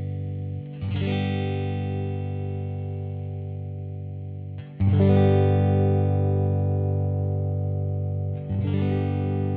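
1982 Vantage VE-550 electric guitar, recorded direct through a DI box, strumming a chord three times about four seconds apart, each chord left to ring and slowly fade.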